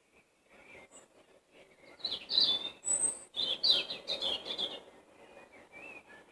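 Wild songbirds singing: a loud burst of rapid, quickly changing song phrases from about two seconds in until nearly five seconds, with one thin, very high note in the middle and quieter scattered calls before and after.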